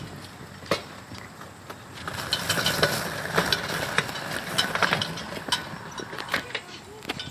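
Mechanical rattling and clicking from a bike's chain and running gear, busiest in the middle.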